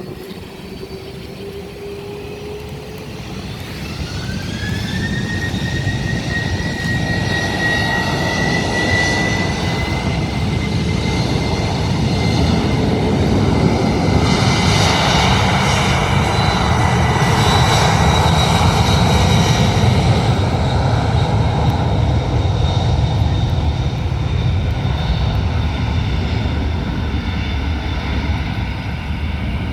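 Boeing 767-300's twin jet engines: a whine rises in pitch a few seconds in and then holds steady over a roar that grows louder, peaks around the middle and slowly eases off near the end.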